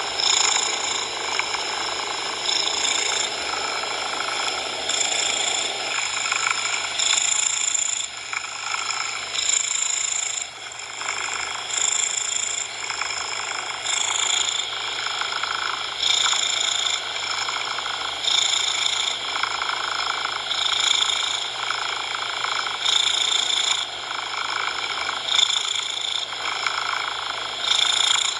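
Cat purring over a steady coloured-noise hiss, swelling and easing about every one and a half to two seconds.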